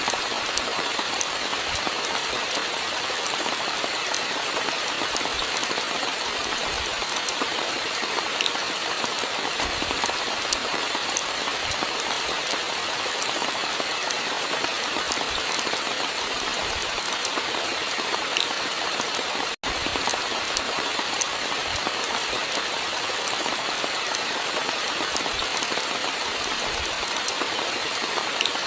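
Steady rainfall, an even hiss with many small drops ticking and the odd soft thump. The sound cuts out for an instant about two-thirds of the way through.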